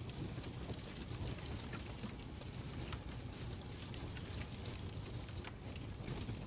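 Fireplace crackling: irregular sharp pops and snaps over a steady low rumble of the fire.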